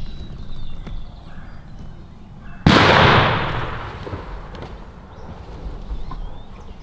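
A single shotgun blast a few seconds in, its report fading away over a second or more.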